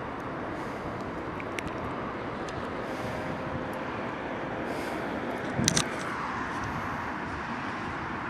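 Steady outdoor background noise, like distant traffic, with a brief clatter about five and a half seconds in.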